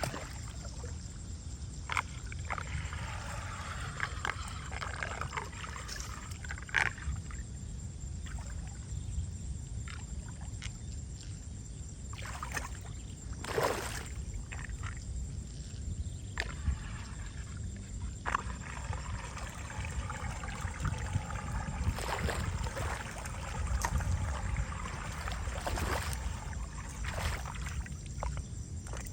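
Water trickling and sloshing through a storm drain being cleared of debris, over a steady low rumble, with scattered short clicks and knocks.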